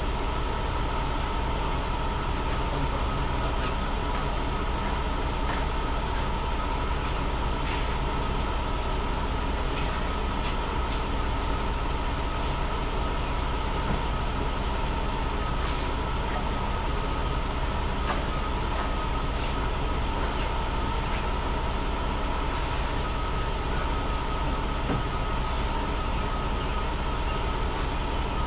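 Vehicle engine idling steadily with the hood open, a steady high whine running over the low hum.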